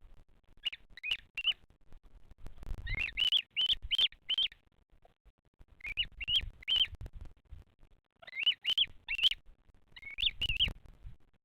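Bearded vulture chick calling in the nest: five bursts of three to five short, high, slightly rising cheeps, several a second, with pauses between bursts.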